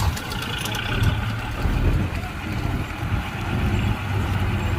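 Heavy diesel machinery engine running steadily, a low drone with mechanical noise over it.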